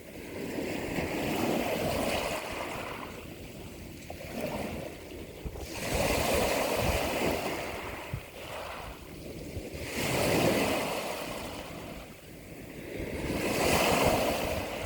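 Ocean waves surging and washing, the noise swelling and ebbing four times, about every four seconds.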